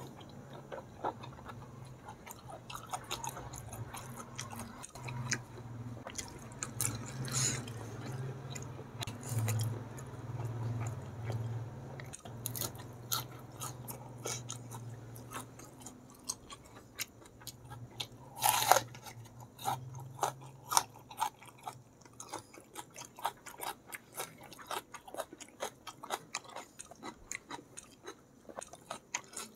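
Close-miked chewing of spicy balado squid and rice, with wet mouth clicks, small crunches and the crackle of fingers in the food. A low steady hum sits under the chewing for the first two-thirds, and one brief louder sound comes about two-thirds in.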